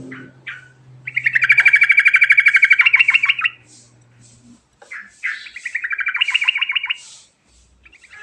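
Trucukan (yellow-vented bulbul) singing its rolling song: a couple of short notes, then two long, very fast, loud trills, with a third starting near the end.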